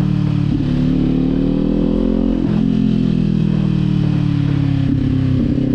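Kawasaki Z400 parallel-twin engine running steadily while riding. Its note climbs gently, then drops about two and a half seconds in and holds steady.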